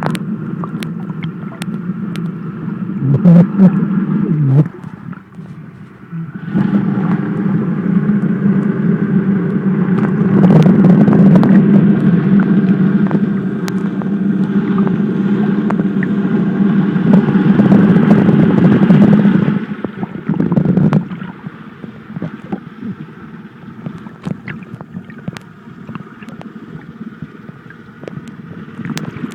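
A boat's engine running steadily, heard as a muffled drone through the water by a phone sealed in a waterproof pouch, with scattered light clicks. It dips briefly about five seconds in, is loudest for the next fifteen seconds, then fades to a fainter hum.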